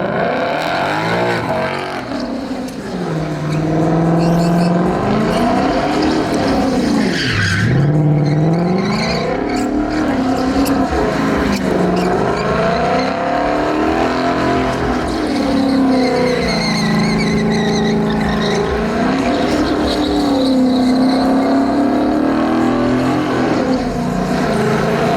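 Truck engine revving hard during a burnout, its pitch rising and falling again and again and held high for a couple of seconds past the middle, over the hiss of spinning, squealing tyres.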